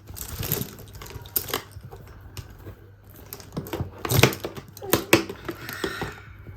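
Hands working open a tightly tied bag holding freshly machine-washed makeup brushes: irregular rustling, clicks and taps, with louder knocks about four and five seconds in.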